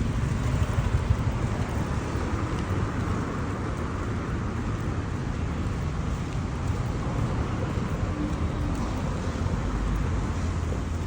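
Steady low rumble and road-like noise of a moving vehicle, running evenly throughout.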